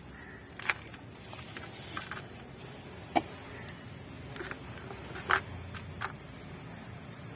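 Scattered light clicks and knocks, about half a dozen, the loudest a little past five seconds in, from handling a plastic planting tub and potting soil.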